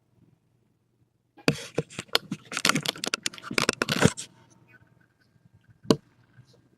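Crackling and clicking handling noise, a dense run of sharp crackles for about three seconds, then one single sharp click a couple of seconds later.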